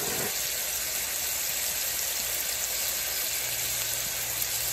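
Steak cubes frying in hot grease in a skillet with diced bell peppers and onions: a steady sizzle.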